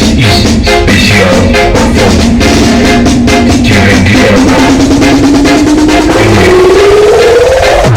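Loud music with drums and heavy bass played through a large carnival sound system. A tone slides steadily upward through the second half and cuts off at the end.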